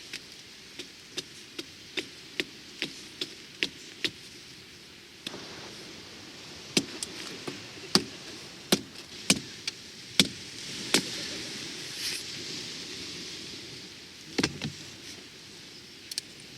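A series of sharp knocks, like chopping or tapping on a hard surface: an even run of about two to three a second for the first four seconds, then louder, irregular knocks, over a steady hiss.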